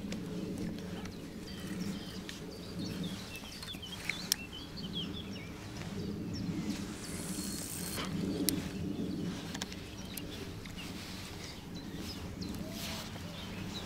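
Small birds chirping and twittering over a low, steady background rumble, with a couple of sharp clicks.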